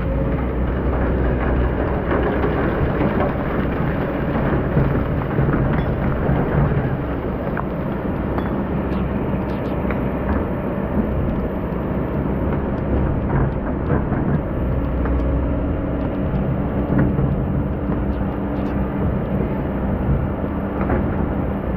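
Diesel engine of a hydraulic excavator running under load, while the bucket grinds and scrapes through hard, compacted old sand, with scattered knocks and clicks.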